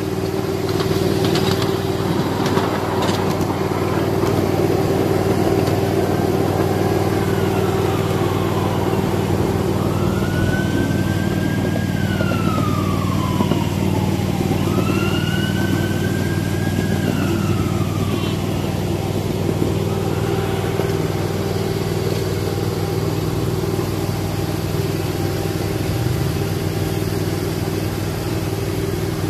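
A 1/8 scale ride-on miniature train running, a steady engine drone, with several long rising-then-falling squeals through the middle of the run.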